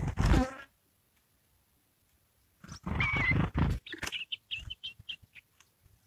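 Two loud, rough bursts of noise close to the microphone as a small bird arrives at its ground nest, followed by a quick run of about seven short, high chirps that fade out.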